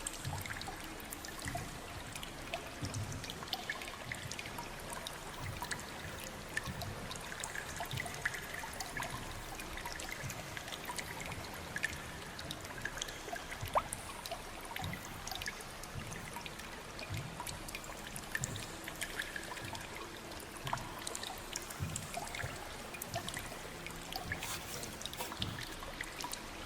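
Water trickling and pouring steadily, with many small drips and splashes scattered through it.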